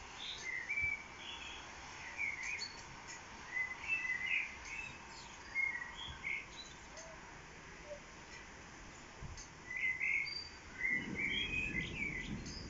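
Songbirds singing and chirping in short phrases over a faint steady hiss. About eleven seconds in, a low rumble sets in underneath and carries on.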